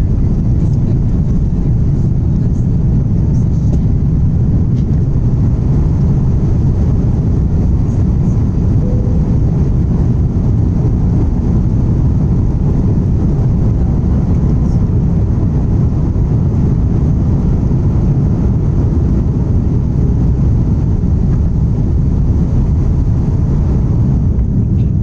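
Airbus A330 jet engines running at takeoff power: a steady, loud, low rumble of engine and rushing air that holds even, with no change.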